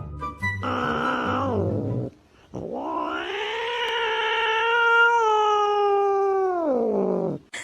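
A cat yowling: a short call that falls away, then after a brief pause a long drawn-out yowl of about five seconds that rises, holds steady and falls off at the end.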